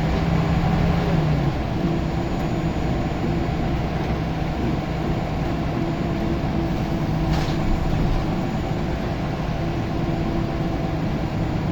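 Scania L94UB single-decker bus's diesel engine running steadily under way. Its humming note steps up in pitch about a second and a half in, and a single brief knock or rattle sounds about seven seconds in.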